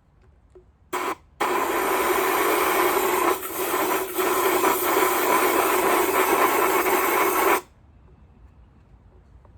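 Compressed-air blowgun blasting dirt and dust out of vacuum cleaner parts: one short blast, then a long hissing blast of about six seconds with two brief breaks, ending abruptly.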